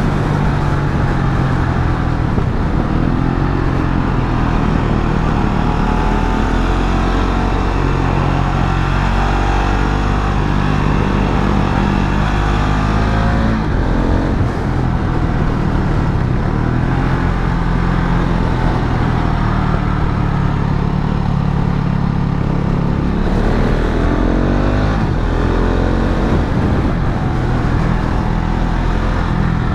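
KTM Duke 690 single-cylinder engine heard from the moving motorcycle, pulling steadily with the revs rising and falling through the gears, with a gear change about halfway through and another about three-quarters of the way in, over a constant rush of wind and road noise.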